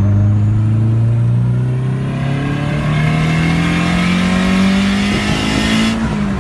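Car engine accelerating hard under load, its pitch climbing steadily for about six seconds, then easing off near the end.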